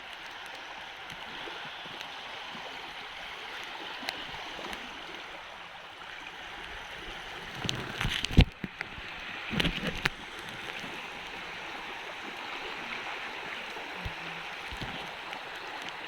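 Steady rush of shallow water washing on the shore. A few short knocks and handling noises come around eight to ten seconds in, and again near fourteen seconds.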